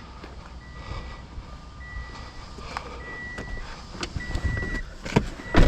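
A vehicle's warning beeper sounding a steady series of high beeps, about one every second and a quarter, over a low engine rumble. Two sharp knocks near the end, the second louder.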